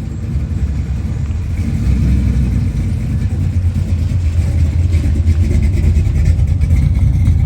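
Car engine running with a steady deep exhaust rumble that grows a little louder over the first couple of seconds.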